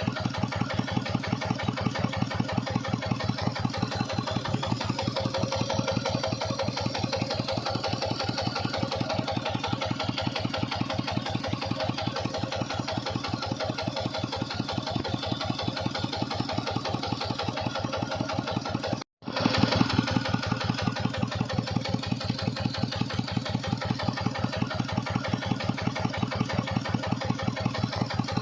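Tractor engine running steadily with an even, rapid beat, driving a water pump. The sound drops out for an instant about two-thirds of the way through, then carries on slightly louder.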